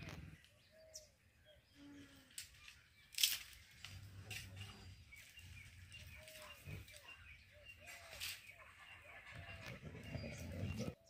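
Faint birdsong: many short, repeated chirps from several birds. A low steady hum joins from about four seconds in, and there are two sharp clicks.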